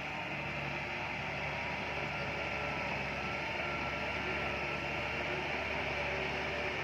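Heavy earthmoving machinery running steadily: a constant engine drone with a faint, slightly wavering whine over it.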